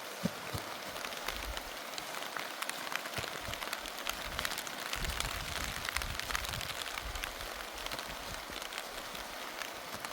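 Steady heavy rain falling, with many separate drop hits, and a low rumble that comes and goes.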